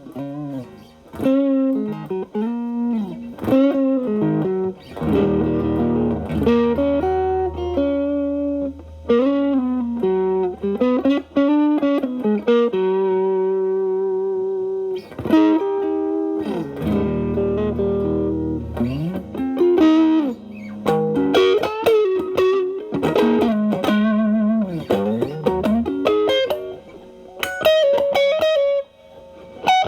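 Electric guitar with a single-coil Telecaster through an MXR Distortion+ stacked into a Boss SD-1 boost, played with the guitar's volume rolled back to clean up the drive. It plays bluesy improvised lead lines with string bends and vibrato, and lets a couple of chords ring out in the middle.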